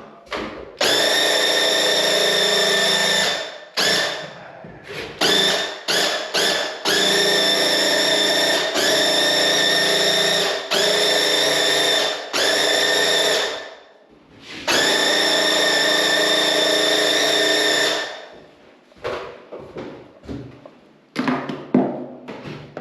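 Graco QuickShot cordless airless paint sprayer buzzing in pulses as its trigger is pulled and released to spray a wall. There is a run of about two and a half seconds, a cluster of short bursts, several runs of about two seconds, and a last run of about three seconds. Near the end, light knocks and handling sounds follow.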